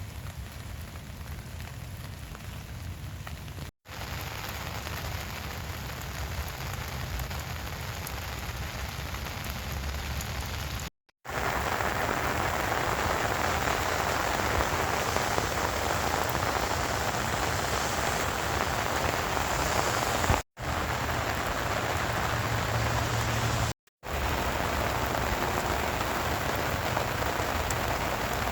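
Steady rain falling and pattering on the ground, heard in several short clips separated by brief cuts to silence; the rain is heavier from about eleven seconds in.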